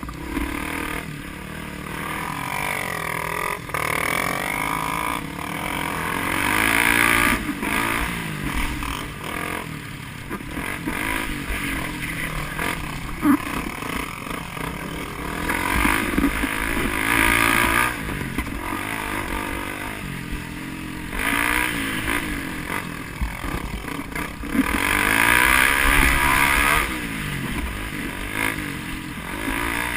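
Vehicle engines revving up and down as they run past, getting louder three times: about a quarter of the way in, around the middle, and near the end.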